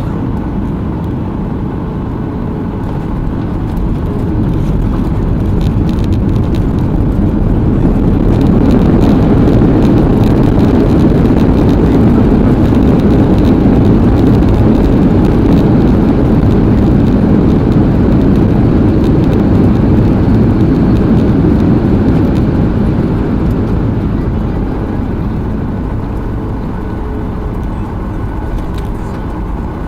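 Cabin noise inside a Boeing 737-800: its CFM56 jet engines and the airflow make a steady roar that swells over several seconds, holds loud, then eases off.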